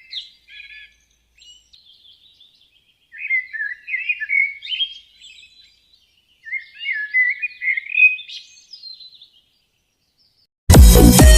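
A songbird singing melodious warbling phrases of quick chirps and trills in three main bouts with short pauses between. Loud electronic music cuts in near the end.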